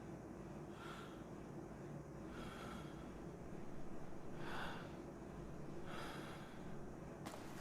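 Faint, slow, heavy breathing of a sleeping person, with a noisy breath about every one and a half to two seconds. There is a short click near the end.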